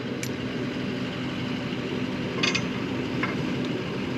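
An engine running steadily at idle, with a couple of short metallic clinks.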